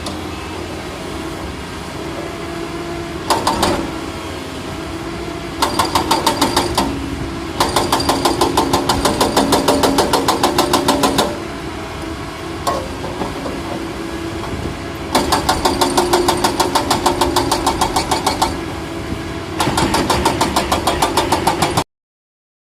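Excavator's diesel engine running steadily, with several stretches of a few seconds each of rapid, even knocking or clanking at about six strikes a second. The sound cuts off suddenly near the end.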